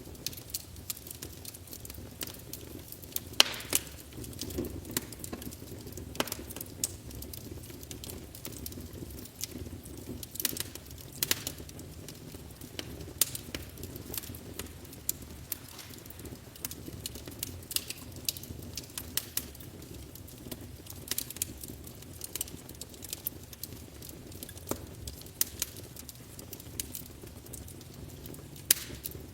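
Wood fire burning in a fireplace, crackling with irregular sharp pops over a low steady rumble of flame. The loudest pop comes about three and a half seconds in.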